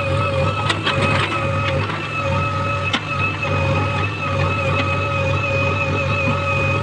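Diesel engine of heavy loading machinery running steadily, with a constant high whine over the low engine rumble and scattered sharp clicks and knocks.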